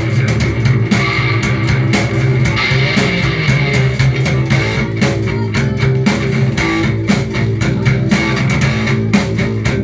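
Rock band playing an instrumental passage: guitar chords over a steady beat, with no singing.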